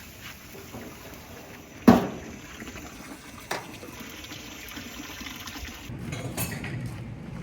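Water running with a steady hiss, with a sharp knock about two seconds in and a lighter one about a second and a half later.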